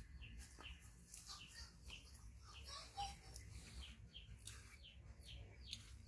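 Faint, rapid high chirps of small birds, about two or three a second, over quiet room hum.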